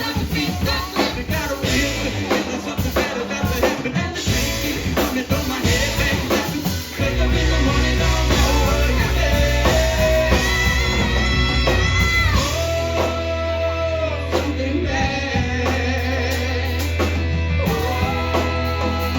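Live rock band playing, with a singer's vocal over drum kit, electric guitar and bass.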